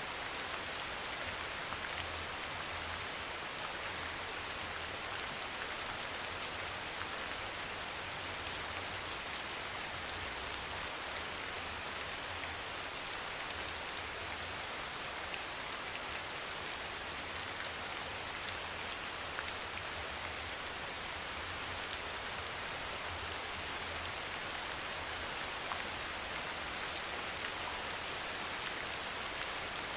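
Steady soft rain falling, an even hiss with scattered small drop ticks and a faint low rumble underneath.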